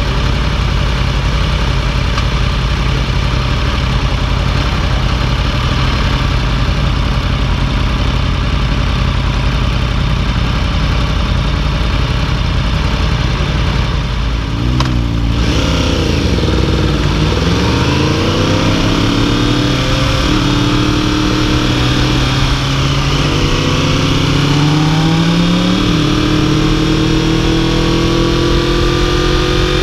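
Yamaha YZF-R1 crossplane inline-four motorcycle engine holding a steady note while riding. About halfway through, the pitch dips and then climbs and drops several times as the bike accelerates up through the gears.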